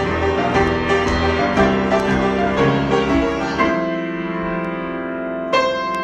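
Piano improvisation: chords and notes struck in a steady rhythm, then a chord left to ring and fade from about halfway, with another chord struck near the end.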